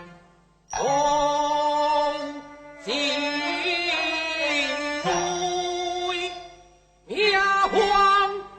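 Teochew opera music: a melodic line of long held notes that slide into pitch, in three or four phrases with brief pauses between them.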